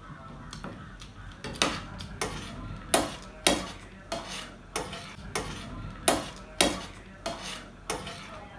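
Crunchy chatpate, a spiced puffed-rice snack, being chewed, with a crisp crunch about twice a second that starts about a second and a half in.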